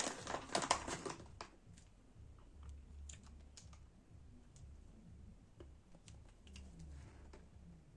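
A quick run of dense small clicks and rustling, then scattered faint clicks for the rest: hands handling small laptop parts during reassembly.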